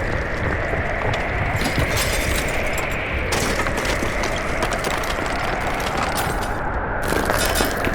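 A small motor running steadily, with three stretches of crackling and crunching over it.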